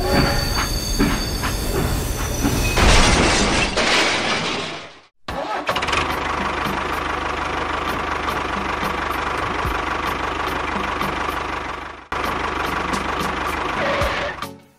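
Tractor engine sound running steadily, loudest in the first few seconds. It drops out briefly about five seconds in, cuts off abruptly and restarts near twelve seconds, and fades out at the end.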